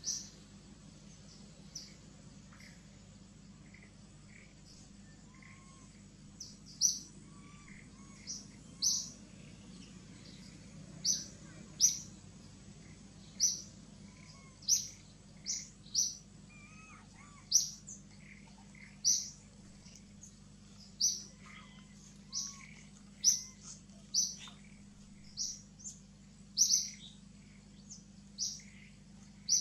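A bird calling over and over, a short high chirp repeated about once a second, over a faint steady background hum.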